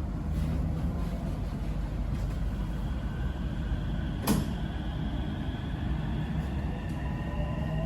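MRT Purple Line train heard from inside the car, pulling away from a station. Under a steady low rumble, the traction motors give thin whines that rise in pitch as the train gathers speed, and there is one sharp click about four seconds in.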